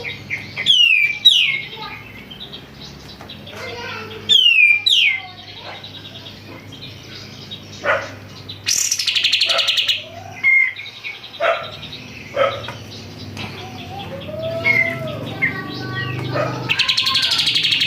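Kapas tembak songbird singing loudly: sharp sweeping whistles near the start and about four seconds in, dense rattling phrases around nine seconds and near the end, with short chirps between.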